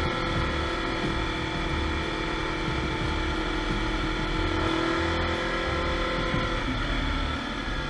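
Kawasaki KLE400's parallel-twin engine running steadily under way, heard from on the bike, its note dropping a little near the end.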